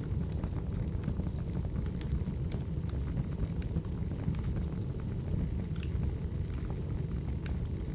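Firewood burning: a steady low rumble of the fire with scattered sharp crackles and pops from the wood at irregular times.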